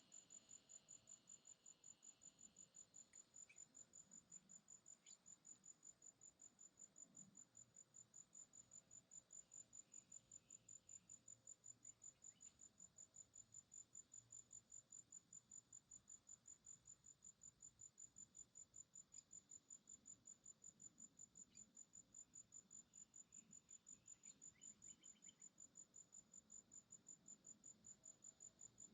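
Faint, steady chirping of a cricket-like insect: one high note repeated in an even, rapid rhythm without a break.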